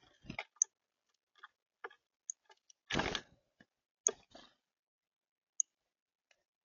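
Birds feeding at a seed feeder: irregular sharp taps and clicks of beaks on seed and feeder, with short scraping rustles, the loudest about three seconds in and another about a second later, and a few very brief high pips.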